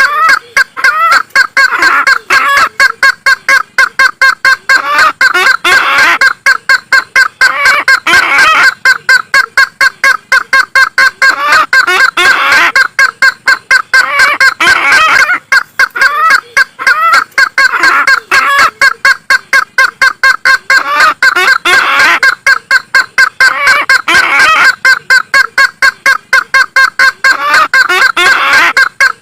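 Recorded lure call of an Isabelline bush-hen (kareo sulawesi): a loud, rapid series of repeated notes, several a second, in phrases that follow one another without a break.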